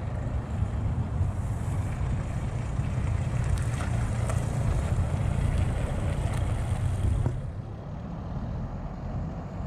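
Austin FX3/FL1 London taxi's diesel engine running as the car drives a tight circle past. It grows a little louder in the middle of the pass, then drops off abruptly about seven seconds in as the taxi pulls away.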